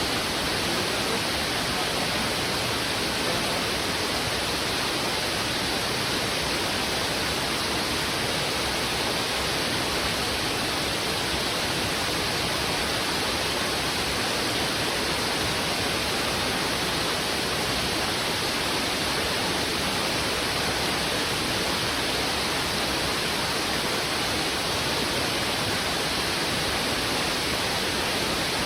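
Heavy river current rushing over rocks: a steady, unbroken rush of water that does not change.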